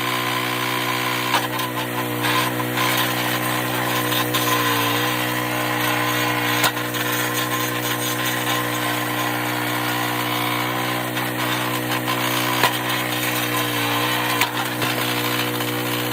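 Engine of a hydraulic log splitter running steadily while splitting firewood. Its pitch sags briefly about five seconds in and again near the end as it takes the load. A few sharp cracks are heard.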